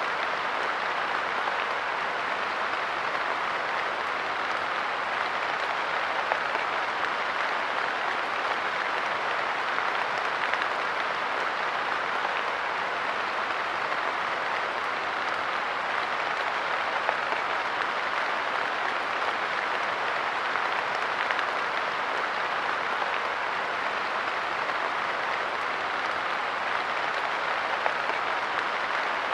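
Light rain falling on a park bench, a steady dense patter of drops with an occasional slightly louder tap.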